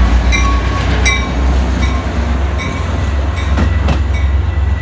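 Metra commuter train rolling in: a heavy, steady low rumble with wheels clacking on the rails. Brief high ringing tones come and go over it.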